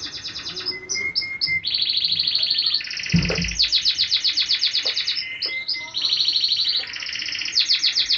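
Small birds singing in rapid high trills, one trill after another at shifting pitches, with short high chips between them. A single low thump comes about three seconds in.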